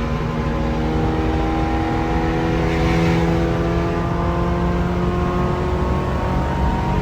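Honda Civic EG sedan's swapped K-series four-cylinder engine running steadily and really loud, its pitch rising slowly over several seconds.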